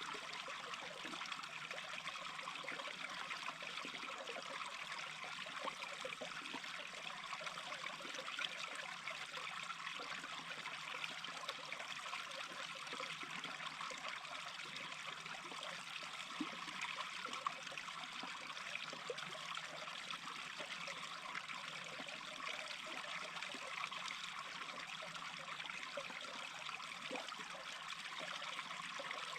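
Small brook babbling steadily, a continuous even rush of running water with small splashy flickers.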